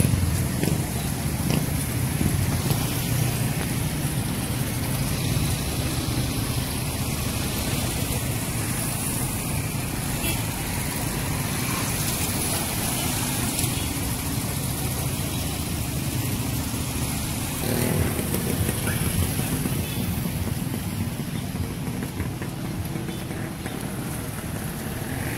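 Road traffic: motor vehicles, motorcycles among them, running and passing in a steady rumble.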